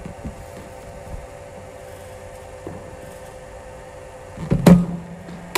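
Steady hum of a cricket bowling machine's spinning wheels. Near the end the machine fires a ball with a loud thump, and under a second later there is a sharp crack of bat hitting ball.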